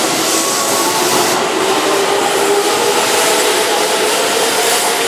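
Keihan 2200-series electric commuter train moving along the platform. It makes a steady, loud running and wheel noise, with a motor whine that rises slowly in pitch as the train picks up speed.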